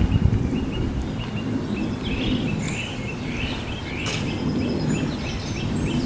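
Small birds chirping, short quick notes repeated several times a second, over a steady low rumble. A single sharp click about four seconds in.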